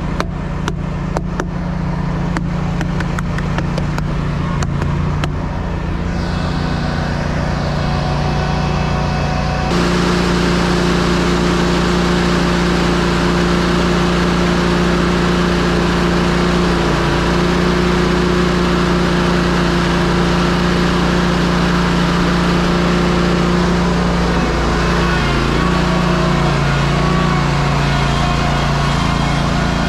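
Ready-mix concrete truck running on the road, heard from inside the cab, with steady diesel engine and road noise. A regular ticking sounds through the first several seconds, and about ten seconds in the sound abruptly gets louder and fuller.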